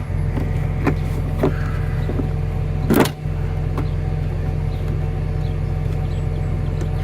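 A motor vehicle's engine idling steadily, with a few short clicks and knocks over it, the loudest about three seconds in.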